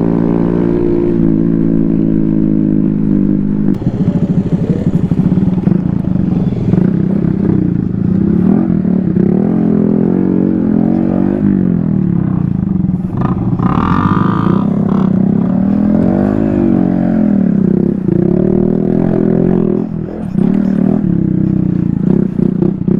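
Small engine running hard while riding a rough dirt trail, its pitch climbing and falling over and over as the throttle is worked over the bumps, with rattling and scraping from the rough ground. It holds a steady pitch for the first few seconds before the revving starts, and revs higher briefly around the middle.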